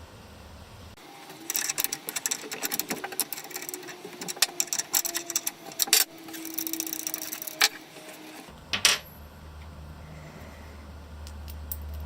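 Rapid, irregular clicking and rattling of small metal and plastic parts being handled while tiny CNC router bits are swapped, with a sharper knock about three-quarters of the way through.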